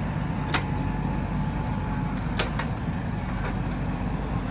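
A JCB 3DX backhoe loader's diesel engine runs steadily at work. Two sharp knocks come through it, about half a second in and again near the middle.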